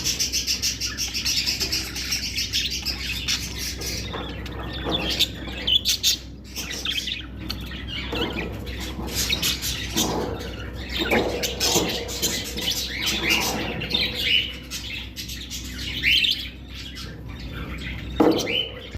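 Budgerigars chirping and chattering: a fast run of high, rapidly repeated chirps for the first few seconds, then separate squawks and warbling calls that rise and fall in pitch.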